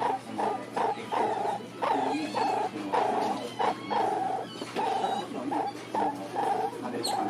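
A pet animal giving a long run of short, repeated calls, several a second, with brief gaps between them.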